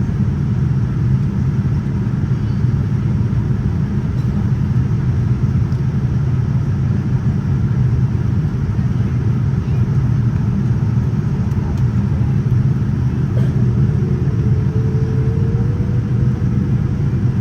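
Steady low rumble of cabin noise inside a Boeing 787-9 airliner in flight, from the engines and the airflow over the fuselage. A faint thin tone comes in over it from about 14 seconds in.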